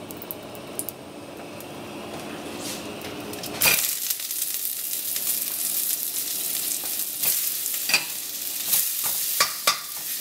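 Onion wedges hitting a hot wok with a little peanut oil, bursting into a loud, steady sizzle about four seconds in. Near the end a metal spatula clicks and scrapes against the wok as the onions are stirred.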